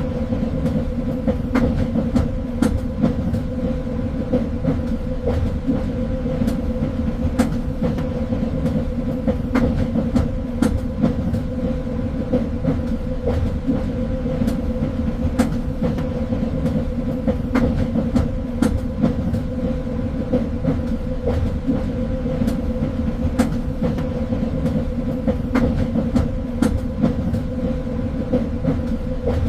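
Train running on rails: a steady rumble and hum, with irregular sharp clicks and knocks from the wheels on the track.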